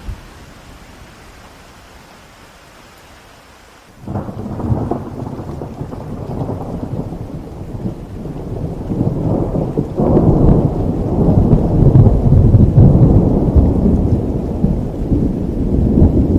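Steady rain falling, then about four seconds in a long roll of thunder breaks in suddenly. The rumble builds and is loudest in the second half, staying strong to the end.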